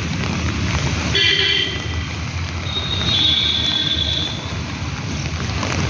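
Steady monsoon rain hiss mixed with street traffic, with a short horn toot about a second in and a longer high tone at about three to four and a half seconds.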